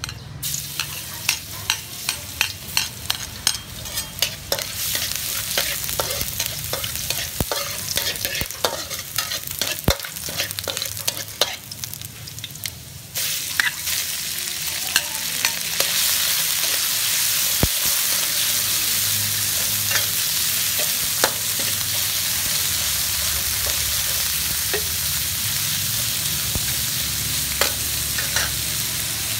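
Minced garlic sizzling in hot oil in a steel wok, with rapid clicks and scrapes of a metal utensil against the pan. About thirteen seconds in, sliced beef goes into the wok and a louder, steady sizzle of beef frying takes over, with an occasional scrape of the metal spatula.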